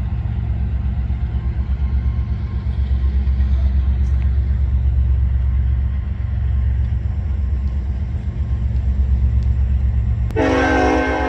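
Freight train passing close by: a deep, steady rumble of diesel locomotive and rolling cars, its loudness pulsing rapidly. About ten seconds in, a held chord of several tones cuts in abruptly over it.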